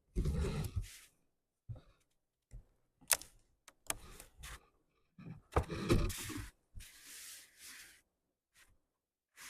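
Handling and eating sounds of a Crumbl molten lava cookie: scattered soft clicks and rustles, with two louder stretches of rustling, one at the start and one around six seconds in.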